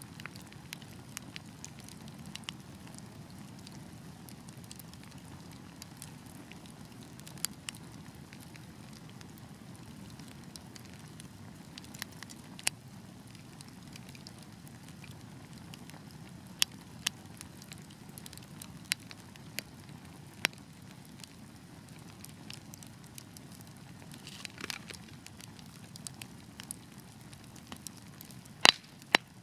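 Wood fire crackling and burning with a steady low rumble. Sharp pops come at irregular intervals, a dozen or so, the loudest near the end, with a brief hiss partway through.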